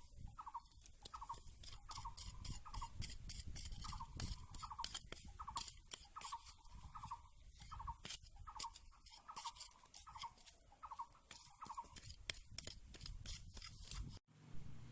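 A small animal's short, high cries repeated about twice a second, over rapid sharp clicking; the sound cuts off suddenly near the end.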